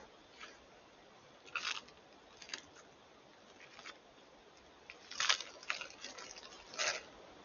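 Irregular crunching and crackling sounds, a handful of short sharp snaps spread out with a denser cluster past the middle, over the faint steady hiss of a trail camera's microphone.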